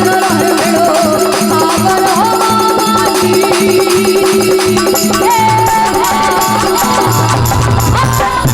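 Rajasthani folk devotional music playing instrumentally between sung lines: a melody steps between held notes over a steady drum beat with jingling percussion, and the bass grows heavier near the end.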